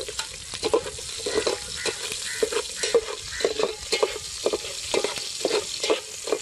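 Chopped onions and mustard seeds sizzling in hot oil in an aluminium pot, while a perforated steel ladle stirs them, scraping and knocking against the pot about two or three times a second.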